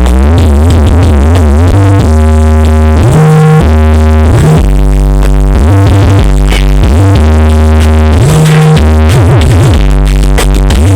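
Electronic dance music played very loud through a huge carnival 'sound horeg' speaker rig. Heavy held bass notes sweep up and down in pitch near the start and again near the end, under a synth line.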